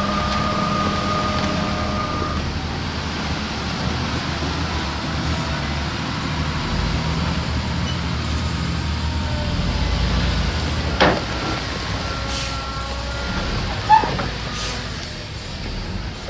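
Diesel engines of heavy earthmoving machinery running steadily, with a held high tone for the first two seconds or so and two sharp clanks, about 11 and 14 seconds in.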